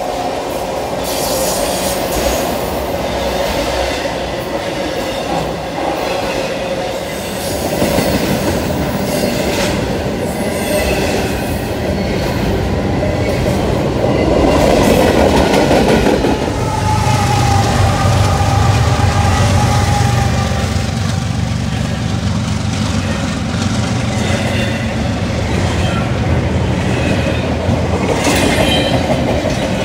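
Norfolk Southern double-stack intermodal freight train passing close by: a steady rolling rumble with steel wheels clicking over rail joints. A thin wheel squeal comes in at times.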